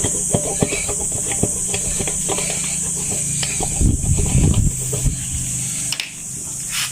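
Hand work on a tubeless tire patch: scattered light taps and clicks, then a louder rubbing burst about four seconds in. A steady high hiss and a low hum run underneath.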